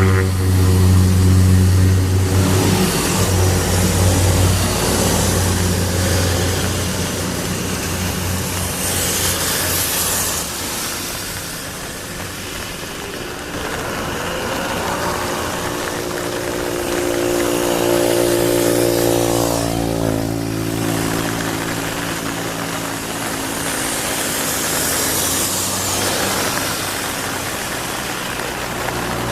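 Cessna 208 Caravan's Pratt & Whitney PT6A turboprop running on the ground, a steady propeller and engine drone whose pitch shifts as the power changes, with hissy swells now and then.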